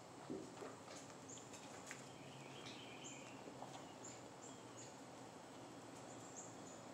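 Faint outdoor background with a bird giving short, high chirps every second or so, and a few soft scuffs and taps from kittens tussling on concrete.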